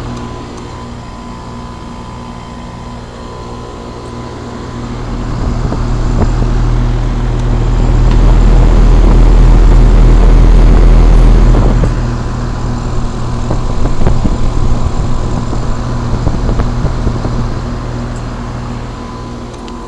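A 5-ton 2001 Trane XE1000 Weathertron heat pump running in heat mode: a steady hum from its Climatuff compressor together with the outdoor fan. About five seconds in, a loud low rumble swells over it. The rumble eases near twelve seconds, then comes and goes before fading near the end.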